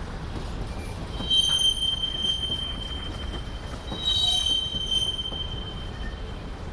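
Freight train rolling past with a steady low rumble. A high, steady squeal of steel wheels on rail starts about a second in, swells twice and fades near the end.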